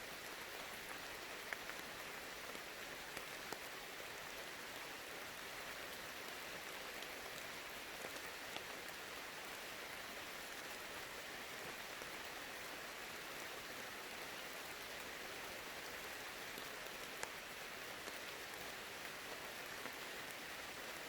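Steady, faint rain falling, with an occasional sharper single drop standing out.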